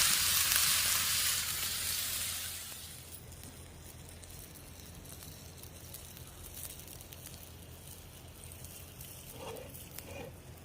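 Meat and onions sizzling as they fry, the hiss fading out about three seconds in, leaving a quiet steady background with a few faint soft sounds near the end.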